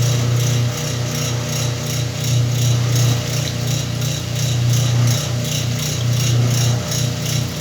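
Whirlpool washing machine running its wash cycle with a load of blankets: a steady motor hum under a regular pulsing churn, about four beats a second.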